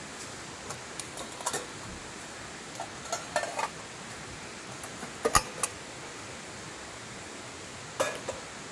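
Scattered light clinks and knocks over a steady hiss, loudest a little after five seconds in and again near the end.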